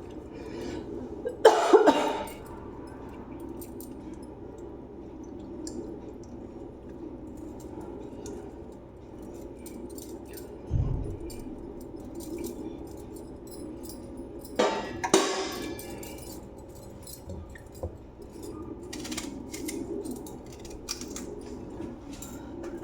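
Metal kitchen utensils clinking and clattering against a pan a few times over a steady hum.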